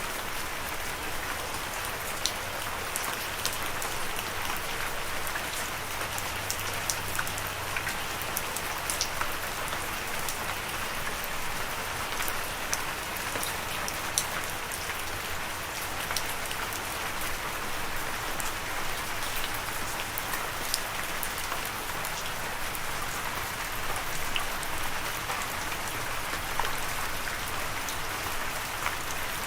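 Steady rainfall: an even hiss of rain with many small sharp drop ticks spattering on a surface.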